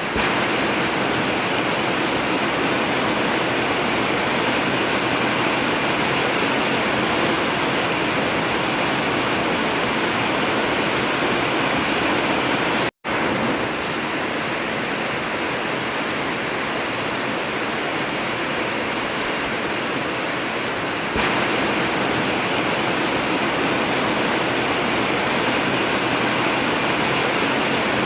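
Heavy rain drumming steadily on an old tin roof, an even dense hiss. It cuts out for a split second about halfway through and comes back a little louder about two-thirds in.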